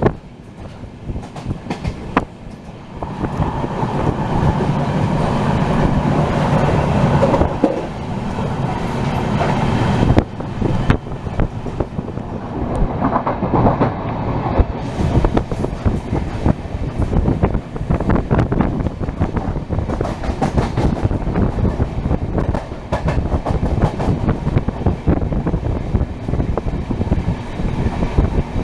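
Passenger train running at speed: a steady rumble with the wheels clicking and clattering over the rail joints. It is louder and fuller from about three to ten seconds in.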